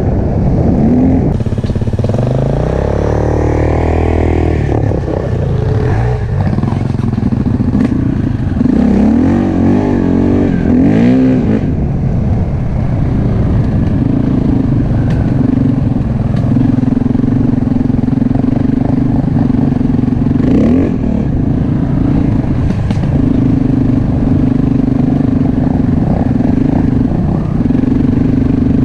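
Enduro motorcycle engine running under way, its pitch rising and falling with throttle changes for the first dozen seconds, then holding a steady pitch with a few brief drops.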